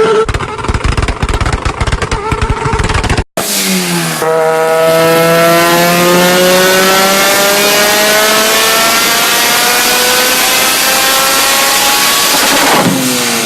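A rapid string of exhaust pops and crackles for about three seconds, then, after a cut, a performance engine accelerating hard, its pitch climbing steadily for about nine seconds.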